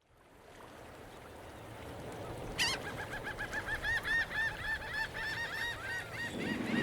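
A bird calling in a fast run of short, repeated chirping notes, about five a second, starting suddenly a little over two and a half seconds in, over steady background noise that fades in.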